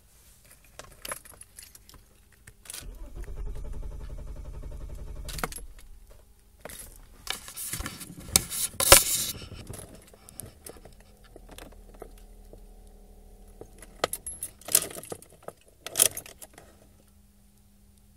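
Car keys jangling on their ring at the ignition, with scattered clicks, loudest in a burst about eight seconds in. A steady low hum runs for a couple of seconds twice, about three seconds in and again about twelve seconds in.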